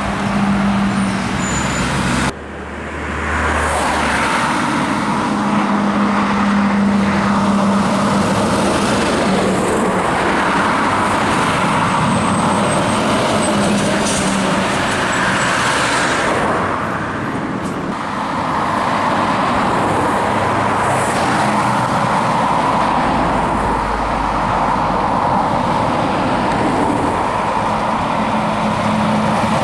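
Heavy trucks' diesel engines running as they drive and work, a continuous loud engine and road noise, with an abrupt cut to another shot about two seconds in.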